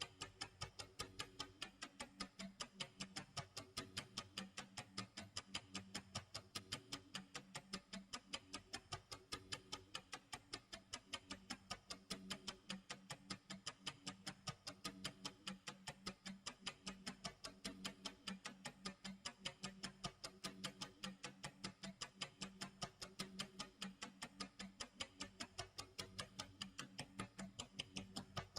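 Clock tick-tock sound effect: steady, even ticking at about two ticks a second.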